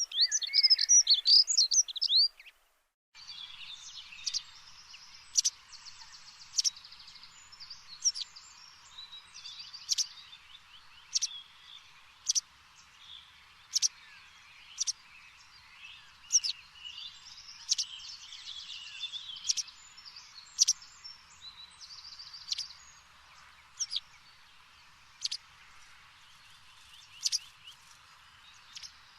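Songbirds chirping: a loud burst of quick rising and falling chirps for the first two seconds or so, which breaks off briefly, then a steady chorus of bird chatter with one sharp chirp repeating about once a second.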